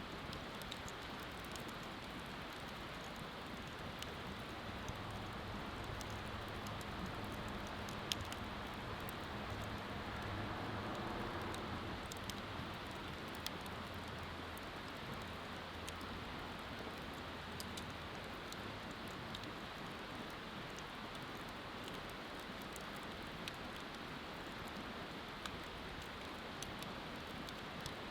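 Wood bonfire burning, with scattered sharp crackles and pops, one louder about eight seconds in, over a steady rushing hiss.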